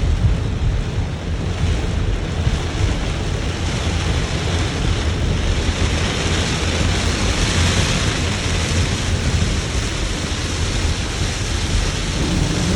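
Torrential rain pelting a moving car, a steady hiss over a deep road and wind rumble heard from inside the car; the rain hiss swells around the middle.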